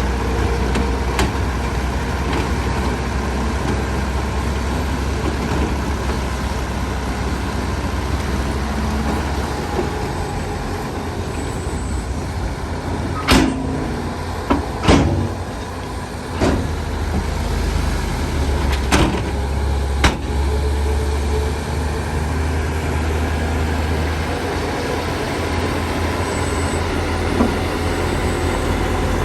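Heavy diesel earthmoving machinery running steadily with a deep low drone, broken about halfway through by half a dozen sharp metallic clanks.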